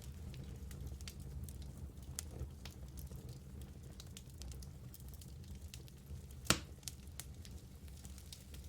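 Wood fire burning in a fireplace: a steady low rumble with scattered small crackles, and one sharp, louder pop about six and a half seconds in.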